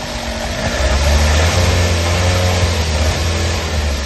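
Toyota RAV4 engine running, its low hum growing louder about a second in and holding there.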